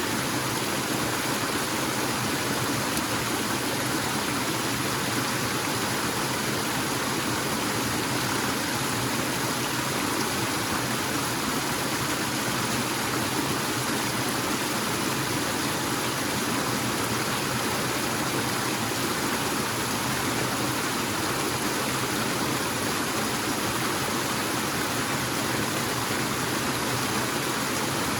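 Forest waterfall: water falling and rushing in a steady, unbroken wash of noise.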